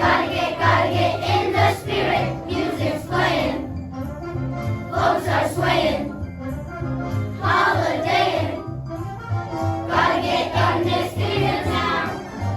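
Student choir singing a holiday song over instrumental accompaniment with a steady bass line and jingle bells.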